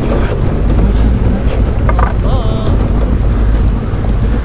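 Motorcycle on the move: steady wind buffeting on the microphone over the low rumble of the engine and road.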